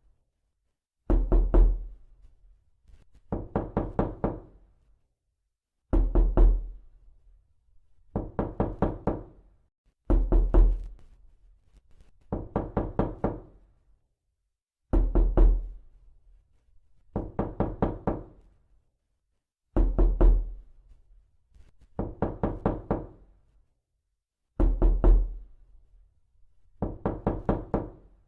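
Realistic knocking, as if someone were knocking to be let in: quick bursts of four to six knocks, each burst about a second long. A new burst comes every two seconds or so, with silence between.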